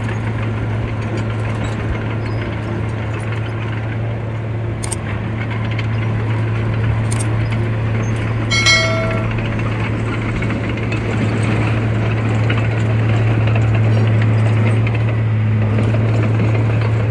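Heavy earthmoving machinery with its diesel engine running steadily under load, a deep constant hum with mechanical rattle, growing a little louder about three quarters of the way through. A single short high beep sounds about halfway.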